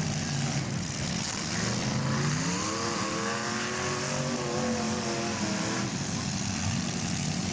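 Demolition derby car engines running, with one engine revving up in rising pitch from about two seconds in, holding high until near six seconds.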